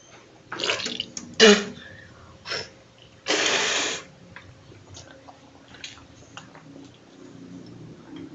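A man coughing, clearing his throat and sputtering with a mouthful of very sour gum and ice water, with a long hard blowing burst about three seconds in, then faint small clicks.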